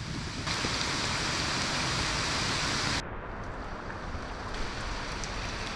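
Steady rushing noise of falling water from heavy rain and nearby waterfalls. Its tone changes abruptly about half a second in, turning brighter and hissier, and again about three seconds in, turning duller.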